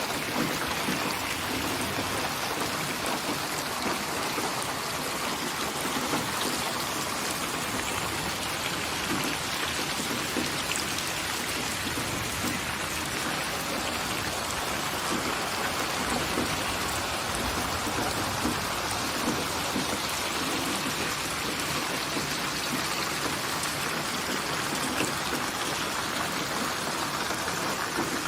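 Steady rainfall, a constant hiss of rain with scattered individual drops ticking on a surface.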